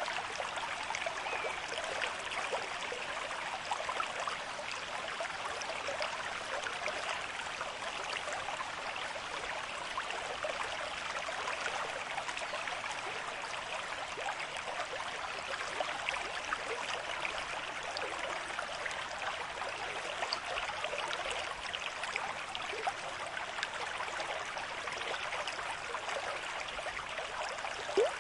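A shallow river stream with moderate flow, its water running and babbling steadily over stones.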